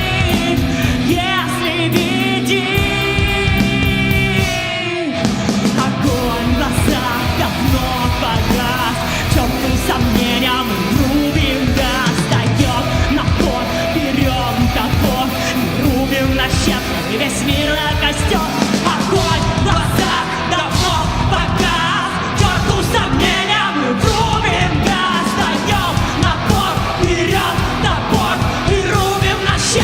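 Rock band song with a female singer. A long held sung note over sustained chords opens it, then about five seconds in the drums come back in and the full band plays on.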